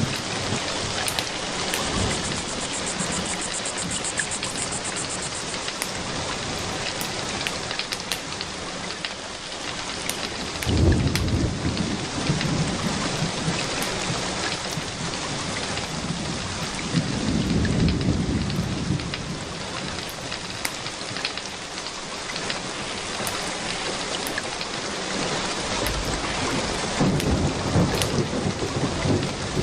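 Steady heavy rain with distant thunder rumbling low twice, about a third of the way in and again just past halfway, and scattered sharp crackles throughout.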